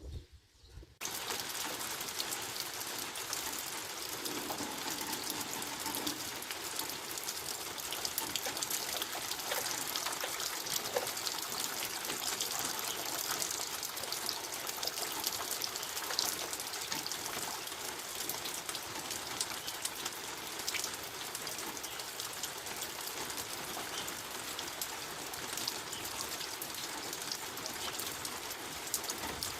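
Steady rain falling: an even hiss with scattered drops pattering, which cuts in abruptly about a second in.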